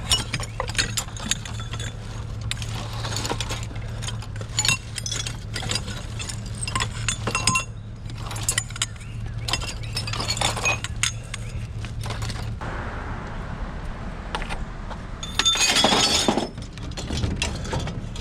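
Scrap metal and glass being handled and loaded: repeated sharp clinks and clanks, with a louder crash about sixteen seconds in. A steady low hum runs under the first two-thirds and then stops.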